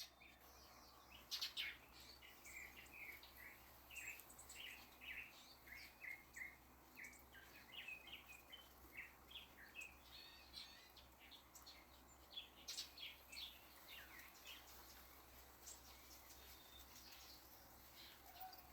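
Faint backyard birdsong: many short chirps, a few each second, over a low steady hum, with a couple of soft clicks.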